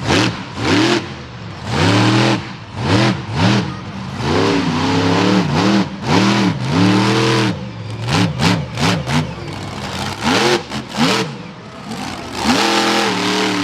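Monster truck engine revving hard in quick repeated blips, its pitch shooting up and dropping again about a dozen times with brief pauses between.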